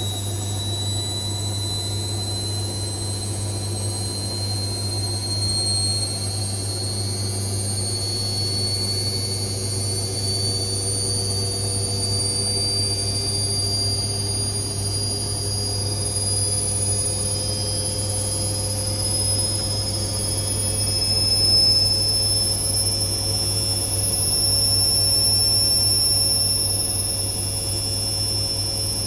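Indesit IWC6165 washing machine's motor whining and slowly rising in pitch as the drum speeds up into a spin, over a steady low hum.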